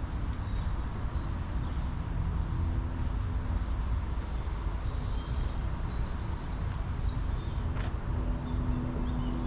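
Small birds chirping, with short high notes scattered through and a quick trill about six seconds in, over a steady low rumble.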